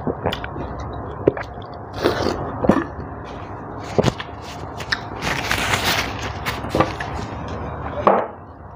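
Close-up chewing of a juicy sweet orange, with wet mouth clicks and smacks. About five seconds in, a tissue rustles across the mouth for a second or so.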